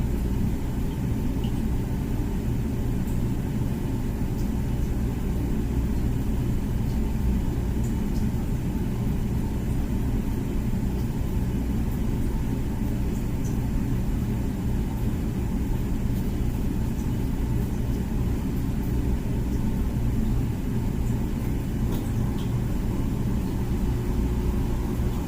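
Comfee dishwasher running its normal wash cycle: a steady low hum and rumble from the machine, with a few faint ticks.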